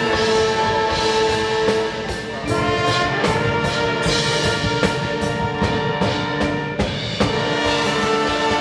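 Indoor winds ensemble playing: sustained brass and wind chords over percussion strokes.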